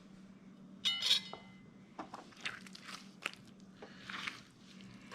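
A hard utensil clinking once about a second in, with a brief ringing tail, followed by scattered soft taps and a rustle of hands handling raw venison.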